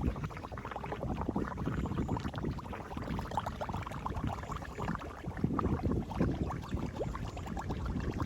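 Floodwater gurgling and splashing as it drains through a road grate, an irregular churning without a break.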